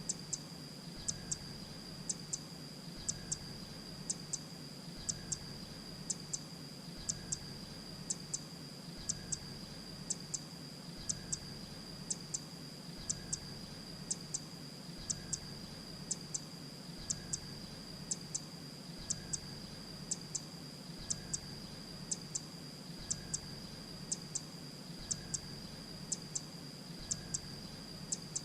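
Grey-breasted prinia call played on a loop: a short, high doubled tick repeated about once a second, with a steady high whine underneath.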